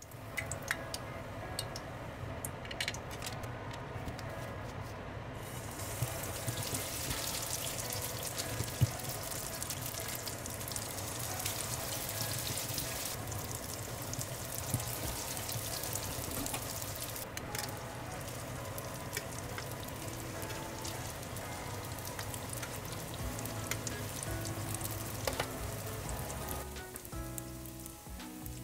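Rice-flour bread rolls deep-frying in oil in a pan: a steady sizzle full of fine crackles, which gets brighter a few seconds in.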